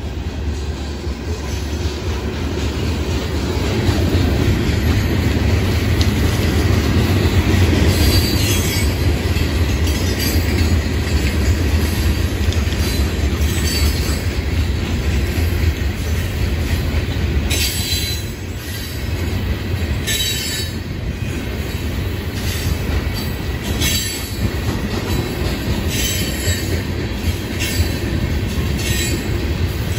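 Florida East Coast Railway freight cars rolling past on the rails, a loud steady rumble. From about eight seconds in, short high-pitched wheel squeals come and go several times.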